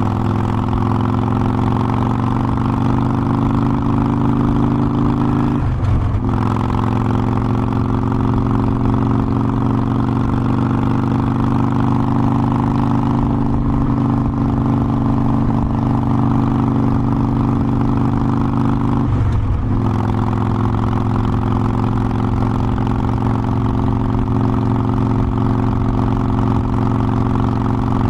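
Harley-Davidson Forty-Eight Sportster's air-cooled 1200 cc V-twin running steadily under way. The engine note dips briefly about six seconds in and again around twenty seconds.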